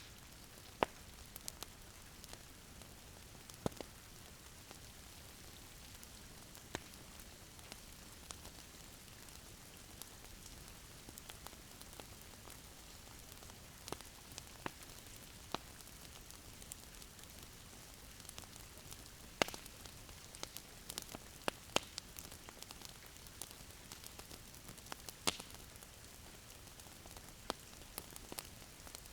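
Wood fire crackling in a fireplace: a steady soft hiss with irregular sharp pops and snaps, a few of them louder.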